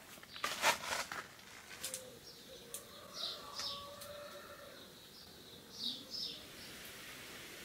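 Small songbird chirps outdoors, short high notes in pairs, heard twice in the middle and latter part. About half a second in there is a brief rustling handling noise.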